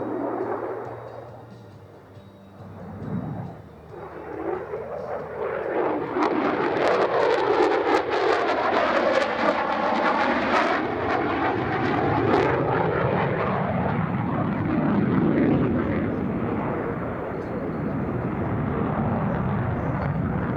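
An F-35A Lightning II's single F135 turbofan engine as the jet makes a pass. The noise swells from about five seconds in and peaks with a sweeping, crackling rush between about seven and twelve seconds in. It stays loud as the jet moves away.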